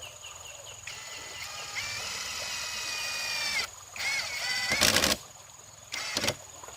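A rooster crowing: one long, drawn-out call, followed by louder, harsher chicken calls. Insects chirp faintly at the start.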